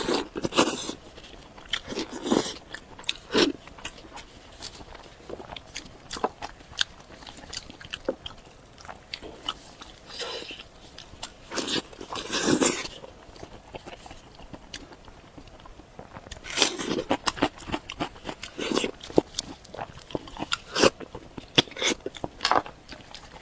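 Close-up eating sounds of a person biting and chewing pieces of a cooked pig's head: irregular sharp clicks, with a few longer, louder bites spread through.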